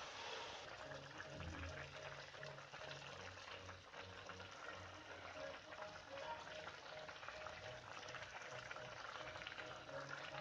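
Bamboo shoot sabji sizzling and crackling in a pan as it cooks, with faint background music that has a steady repeating beat.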